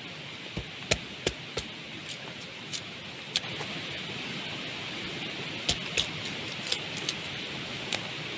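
Steady rain hiss with about a dozen irregular sharp knocks and taps over it, some in quick pairs; the rain grows a little louder about halfway through.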